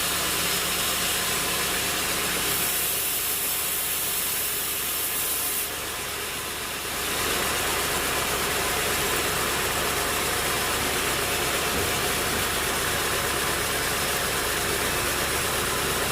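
Sawmill machinery running steadily, with an engine-like drone, dipping briefly about six seconds in before picking back up.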